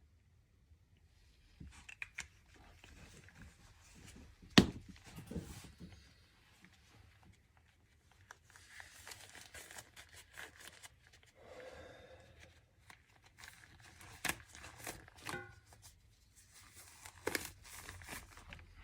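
Handling noises: rustling and crinkling with scattered clicks, one sharp knock about four and a half seconds in, and a short quick rattle of ticks later on.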